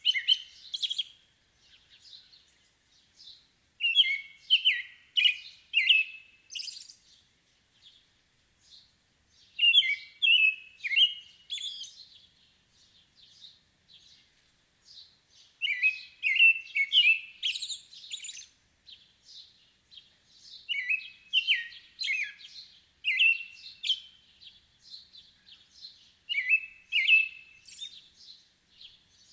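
Songbirds singing: a run of quick, high chirping notes repeats every few seconds, with softer chirps in between.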